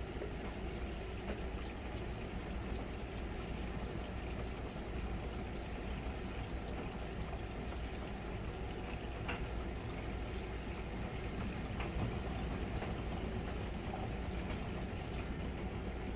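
Miele Novotronic W921 front-loading washing machine running its wash cycle: a steady noise of water in the drum, with a few faint clicks.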